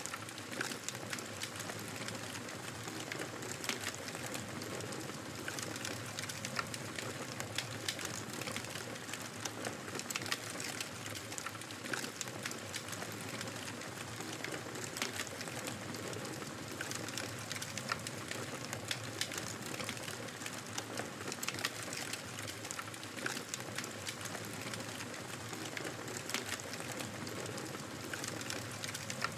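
Wood fire crackling in a fireplace: a steady soft hiss with many small, sharp pops and snaps scattered throughout.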